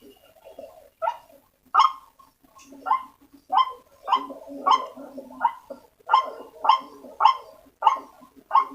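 White-breasted waterhen calls from a bird-lure recording: a rapid series of harsh 'ruak' notes, about two a second, starting about a second in, with lower notes beneath them.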